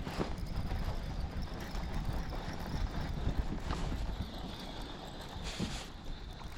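Wind buffeting the microphone as a low, steady rumble, with a few light knocks and clicks scattered through it.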